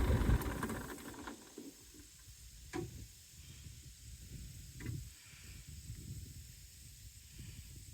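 A tractor engine running fades away within the first second or so, leaving faint low rumble and hiss broken by two brief soft knocks.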